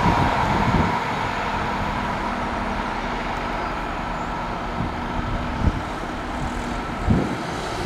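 Passenger train hauled by an EP07 electric locomotive going away: its rolling noise drops off about a second in and carries on as a steady, fading rumble. Two short low thumps come in the second half.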